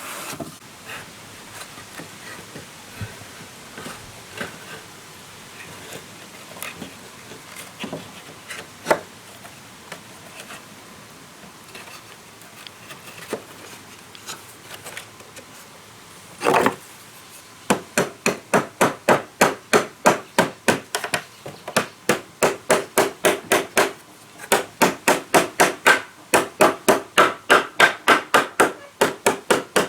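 Hammering on wood: scattered light taps and knocks, one heavier knock a little past halfway, then rapid, steady hammer blows at about three a second, with a short break about three-quarters of the way through.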